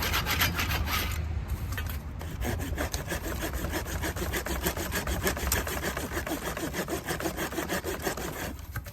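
Hand saw cutting through a wooden log, with quick regular back-and-forth strokes. The strokes ease off briefly about a second in, then pick up again and stop just before the end.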